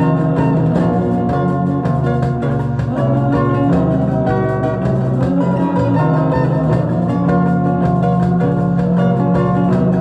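Guitar-led instrumental music: quick plucked guitar notes over steady low notes underneath, with no singing.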